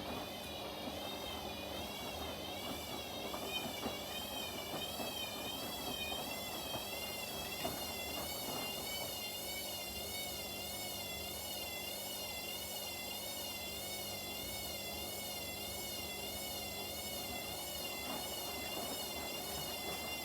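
Washing machines running, their motor giving a high whine that wavers up and down in pitch about once a second as the drum turns, over a light rattle of the load and drum.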